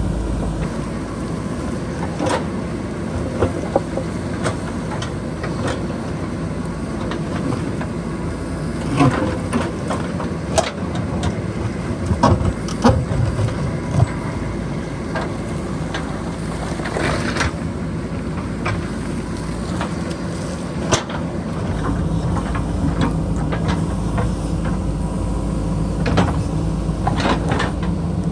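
JCB backhoe loader's diesel engine running under steady load, growing heavier about two thirds of the way in, with many sharp knocks and clanks of the bucket working against rock and boulders.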